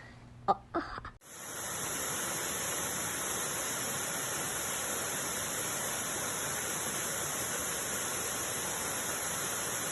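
Steady rushing of a waterfall's falling water, an even hiss without rhythm that starts suddenly about a second in.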